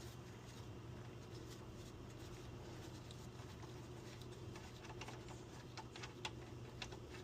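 Engine oil draining out of the Mustang's 5.0 V8 oil pan into a drain pan, a faint steady patter, over a low steady hum. A few light clicks and taps come from about five to seven seconds in, from the loosened drain plug and tools.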